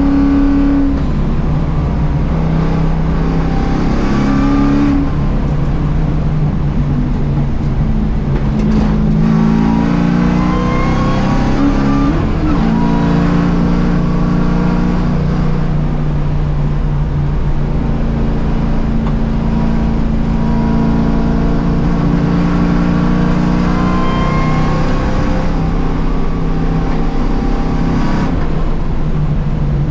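Mustang race car engine under hard driving on track, heard from inside the cabin: its revs climb, drop back and climb again several times, over steady road and wind rumble.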